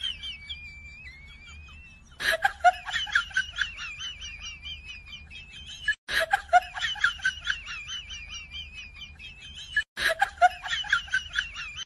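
High-pitched, sped-up giggling laughter in quick pulses, starting over abruptly three times after sharp cuts, with a faint low hum beneath.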